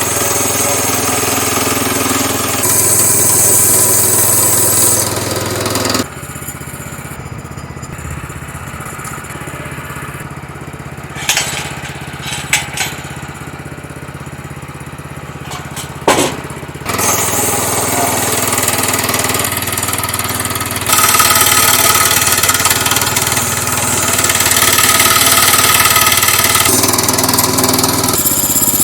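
Woodland Mills bandsaw mill's small gas engine running steadily while the band blade saws through a log, with loud cutting noise at the start and again over the last ten seconds or so. In between there is a quieter stretch of about ten seconds with a few sharp knocks. The engine is running at only about quarter throttle, because its throttle screw was not tightened, so the saw bogs down in the cut.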